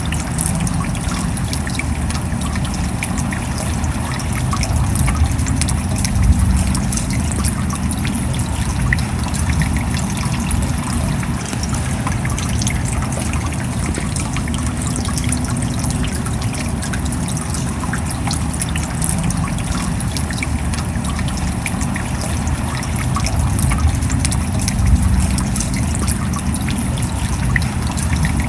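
Steady rain: a dense hiss of many small drop ticks over a deeper rush of water, swelling slightly twice.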